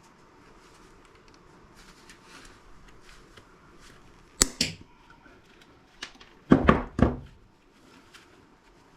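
Disassembly handling noises on a workbench: faint small clicks and rustling of parts, a sharp click about four and a half seconds in, then three quick knocks near the end.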